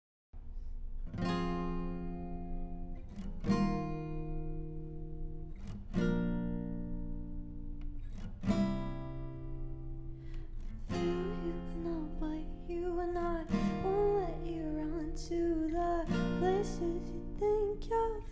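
Acoustic guitar chords strummed slowly, one chord about every two and a half seconds and left to ring. A voice singing a melody joins about eleven seconds in.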